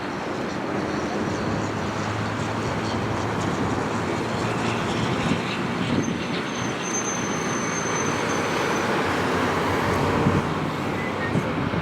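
Airbus A319 airliner's jet engines during the landing, a steady rushing noise with a thin high whine for a few seconds partway through.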